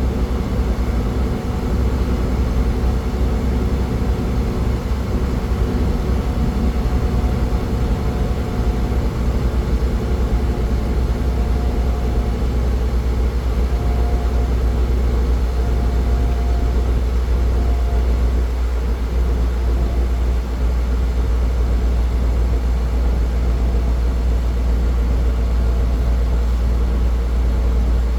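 Car travelling at highway speed: a steady low road and engine rumble with tyre noise. A faint higher whine comes and goes in the middle.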